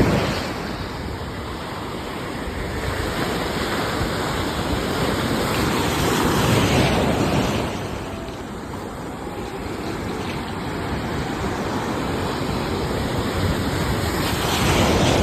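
Sea waves surging and breaking, a steady wash of surf that swells and falls back, with one wave peaking about halfway through and another near the end.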